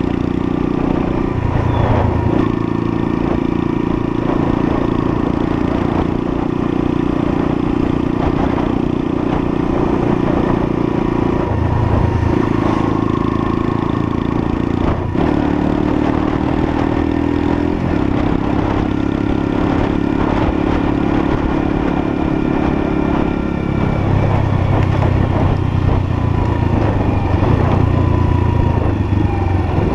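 Lexmoto LSM 125 motorcycle's 125cc engine running while riding along, its note shifting in pitch several times as engine speed changes, about 2, 12, 18 and 24 seconds in.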